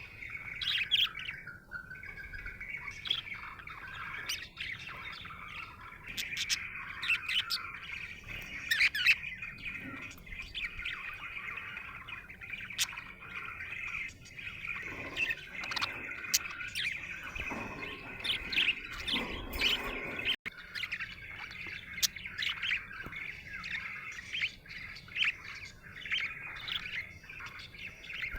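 Budgerigar chirping and chattering continuously, a steady stream of quick sharp chirps.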